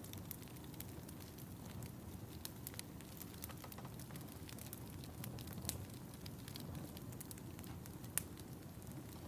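Wood fire crackling in a fireplace: a steady low rumble with frequent sharp pops, a louder pop about eight seconds in.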